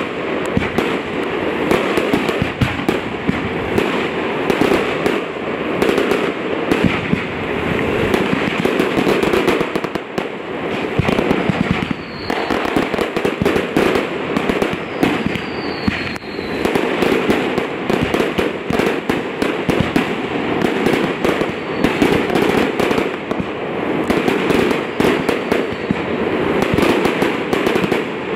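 Aerial fireworks display: a continuous dense barrage of shell bursts, bangs and crackling stars, with two faint short high whistles, about 12 and 15 seconds in.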